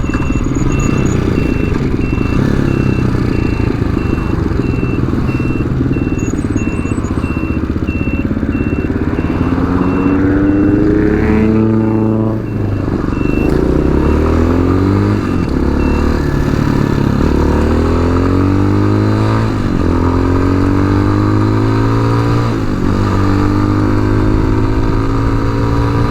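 Tao Tao TBR7 Chinese dual-sport motorcycle engine under way, revving up through the gears, with its pitch rising, dropping at each shift, then holding steady at cruise. A high beep repeats evenly through the first half and then stops.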